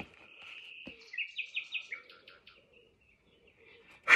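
A small bird singing: a thin, high held note, then a quick run of about six short chirps, fading away.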